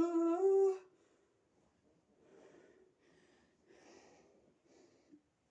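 A person's drawn-out, steady-pitched wail ends under a second in, followed by three faint breaths.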